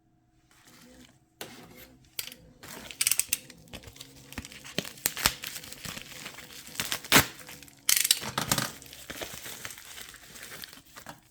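Crinkling and rustling of wrapping being handled close by, in irregular bursts with sharp crackles, the loudest about seven seconds in.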